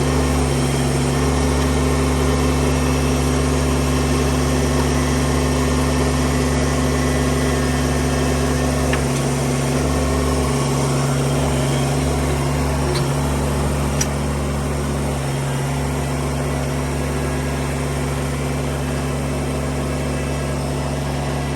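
Small Kubota tractor's engine idling steadily, with a brief faint click about two-thirds of the way through.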